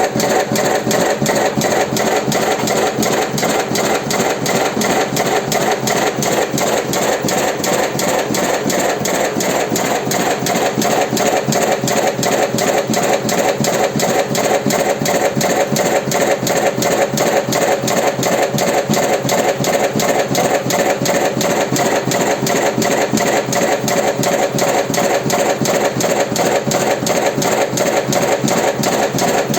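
Automatic electric cigarette-filling machine running steadily, its mechanism cycling in a fast, even rhythm of strokes as it fills cigarette tubes.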